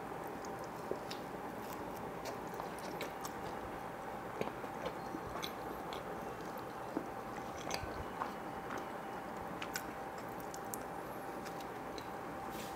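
Close-miked chewing of a piece of pizza crust dipped in cheese dip: soft, irregular wet mouth clicks and smacks over a steady background hiss with a faint steady hum.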